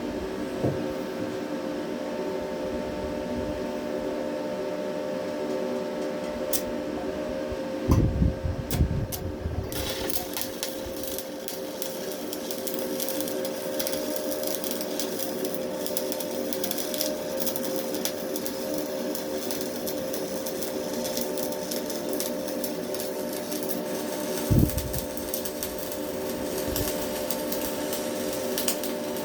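Stick welding with Hilco rods: after a few knocks, the arc crackles and sizzles continuously from about ten seconds in. A steady hum runs underneath throughout, and there is one more knock near the end.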